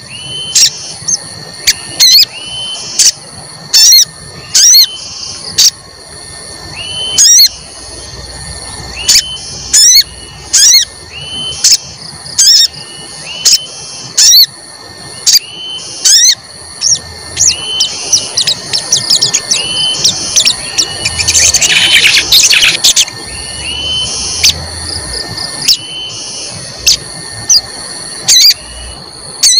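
A sogon bird calling over and over with short, sharp rising 'cuit cuit' chirps, about one a second. About two-thirds of the way through comes a dense flurry of chirps, all over a steady high-pitched whine. This is a lure call, played to set other sogon singing and agitated.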